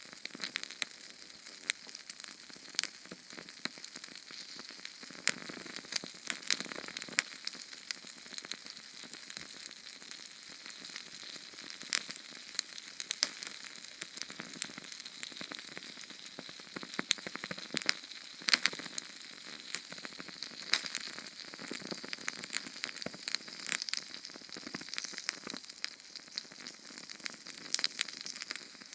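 Small Sterno canned-fuel flame burning: a steady sizzling hiss with many sharp crackles and pops scattered through it.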